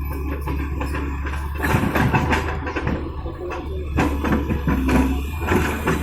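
JCB 3DX backhoe loader's diesel engine running steadily with a low hum, and irregular knocks and clatter starting a little under two seconds in.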